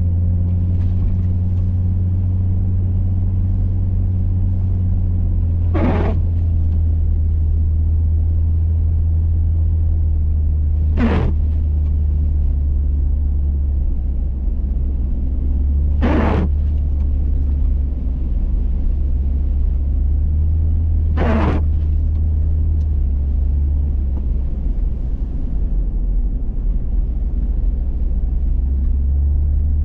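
Steady low rumble of a Hummer H3 driving through snow, with four brief swishes about five seconds apart.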